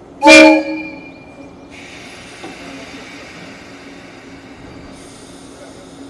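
Short horn blast from a 117 series electric train as it departs, about half a second long with a pitch that sags at the end. A steady hiss follows, starting under two seconds in.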